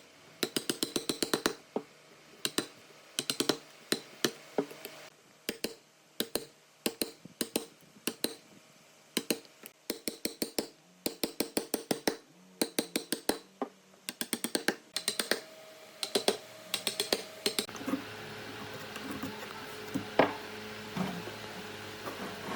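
Quick bursts of light, sharp taps, several in a row, broken by short pauses. About eighteen seconds in the tapping stops and a faint steady hum takes over, with a few single knocks.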